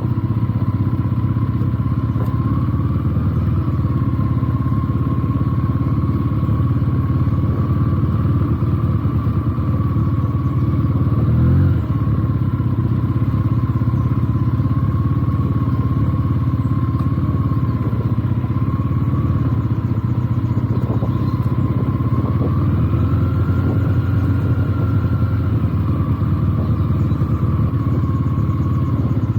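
Benelli TNT 300's parallel-twin engine running steadily under way, its pitch wavering slightly with the throttle, with a brief rev and drop about twelve seconds in.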